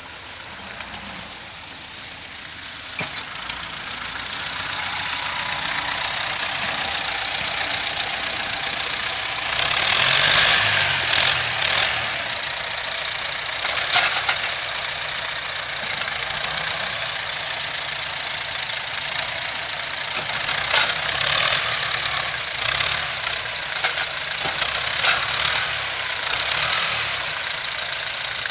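T-40 tractor's diesel engine running, picking up revs a few seconds in and loudest around ten seconds in, with a few sharp knocks later on.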